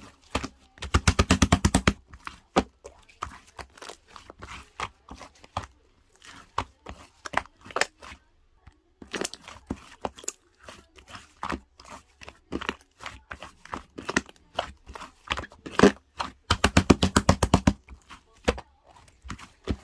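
Ice cream scoop scraping and digging through frozen mint chocolate ice cream: a run of crunching, crackling scrapes. Two longer rapid rattling scrapes come about a second in and again near the end.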